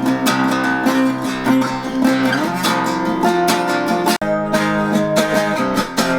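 Music led by strummed acoustic guitar with a steady beat, broken by a brief dropout a little past four seconds in.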